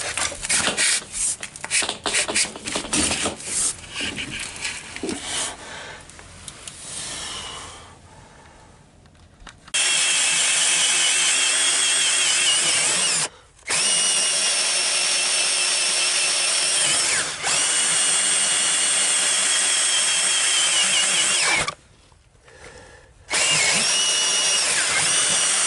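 Handling clicks and scrapes for the first several seconds, then an electric power drill running at steady speed: one long run of about twelve seconds with a brief stop partway, and a second run near the end.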